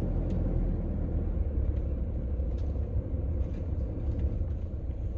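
Car cabin noise: a steady low rumble of the vehicle running, with a few faint ticks as rain starts to fall.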